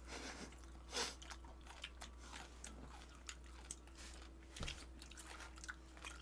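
Close-miked chewing and mouth sounds of people eating grilled fish, with scattered short, sharp clicks of chopsticks and dishes; the loudest click comes about a second in.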